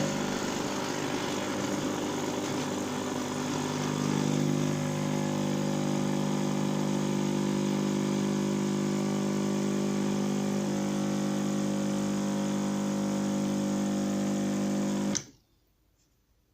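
A coffee machine's electric motor running with a steady buzzing hum. It settles to a slightly different tone about four seconds in and cuts off suddenly after about fifteen seconds.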